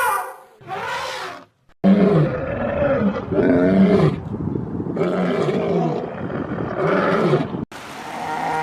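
Big cat roaring: a series of about four rough, drawn-out roars, each about a second long, ending abruptly near the end.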